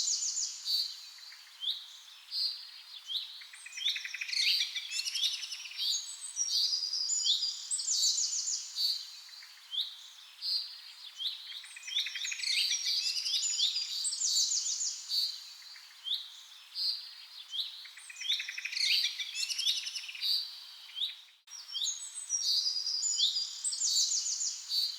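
Birds chirping and calling in a chorus of high trills and short downward-sweeping notes, the same phrases coming round again every five seconds or so. A brief dropout comes about 21 seconds in.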